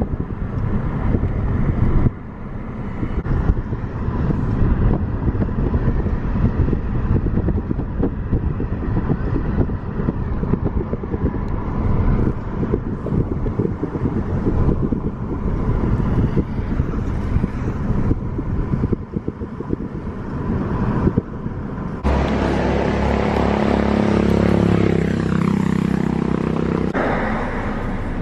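Motor vehicle ride: a steady rumble of engine and road noise with buffeting on the microphone. About three quarters of the way through it changes to a smoother, steadier hum with pitched tones.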